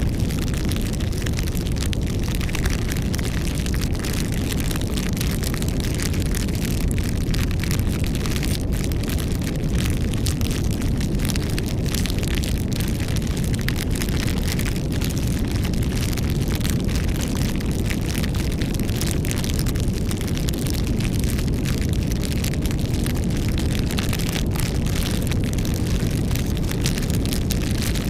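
Wood campfire burning, with a steady low rush and a constant scatter of small crackles and pops from the burning wood.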